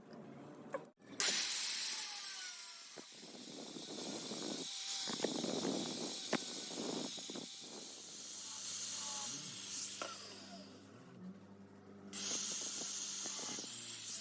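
Loud hiss of a spray or air jet in two long bursts, each starting and stopping suddenly, with faint workshop knocks underneath.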